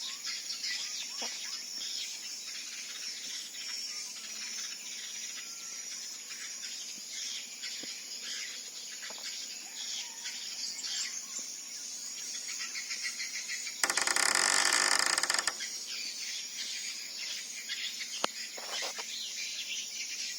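Many small birds chirping and twittering without pause. About 14 seconds in, a loud, broad noise cuts in for about a second and a half, then stops abruptly.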